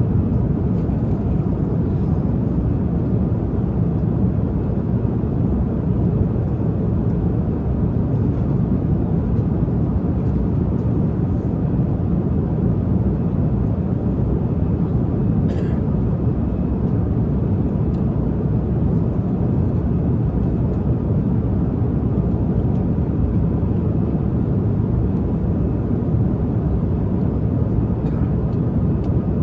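Steady, even rumble of an airliner cabin in flight: engine and air noise that holds at one level throughout, with a few faint ticks over it.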